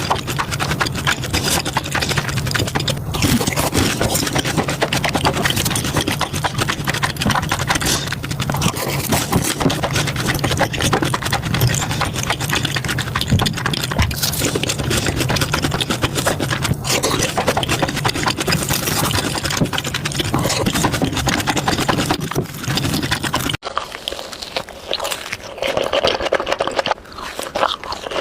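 Close-miked crunching and chewing of crispy fried cheese balls: a dense run of crackles and clicks over a low hum, cutting abruptly near the end to a quieter stretch of chewing.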